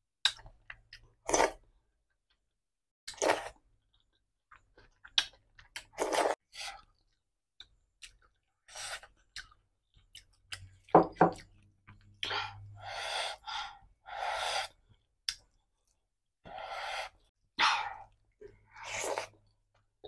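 A person eating with her fingers: wet chewing and mouth sounds in short separate bursts, with brief pauses between mouthfuls.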